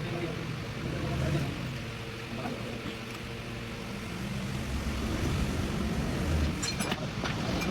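An engine running steadily with a low hum, with a few sharp clicks near the end.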